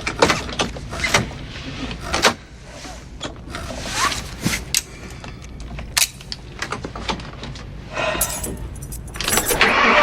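Irregular clicks, clunks and short squeaks from a dry, squeaky mechanism in a motorhome, over a low steady hum. A louder, steady rushing noise starts near the end.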